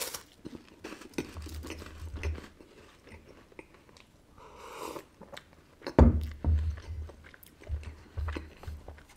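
Close-miked biting and crunchy chewing of dry layered wafers, with a soft gulping sound around the middle as he drinks. About six seconds in a loud knock, the glass mug set back down on the wooden table, and then the chewing goes on.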